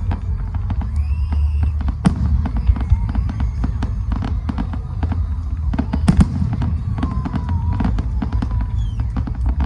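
Fireworks going off in a rapid, continuous barrage of bangs and crackles over a steady low rumble. A few sharper, louder reports stand out, about two seconds in and about six seconds in.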